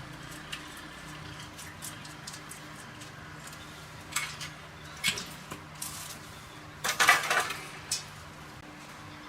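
Light clinks and taps of small metal parts being handled, with a louder clatter about seven seconds in, over a faint steady hum.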